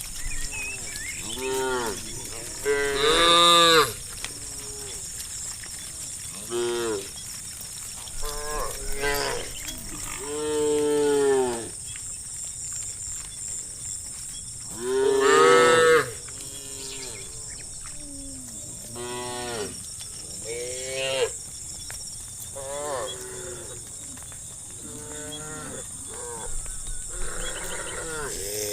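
Cattle in a herd mooing again and again, about a dozen calls of half a second to two seconds each, some overlapping, the loudest about three and fifteen seconds in.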